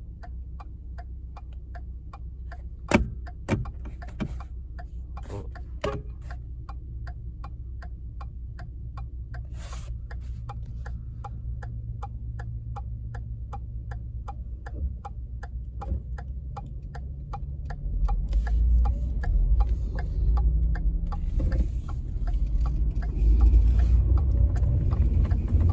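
Turn-signal indicator ticking steadily, about two to three ticks a second, over the low rumble of the Ford F-150's 3.7-litre V6 engine and road noise while the truck is driven. The rumble grows louder from about eighteen seconds in, and there is one sharp louder click about three seconds in.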